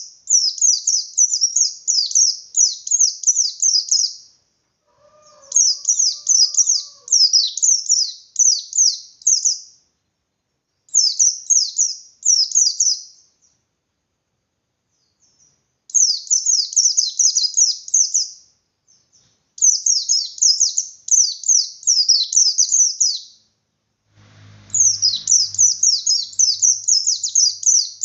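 Pleci bustomi (a white-eye, Zosterops) singing its insistent ngalas song: six bouts of rapid, high, downward-slurred notes, each a few seconds long, with short pauses between. A faint low hum comes in near the end.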